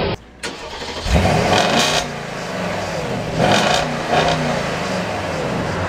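A supercar engine revved twice in short blips, about a second in and again a little past the middle, running at a lower pitch between them.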